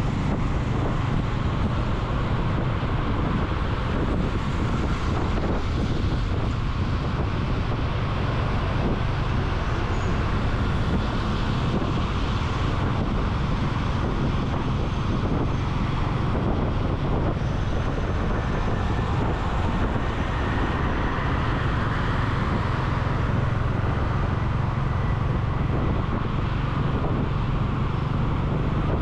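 Wind noise buffeting the microphone while riding a motorcycle through city traffic, over a steady low hum of engine and road noise.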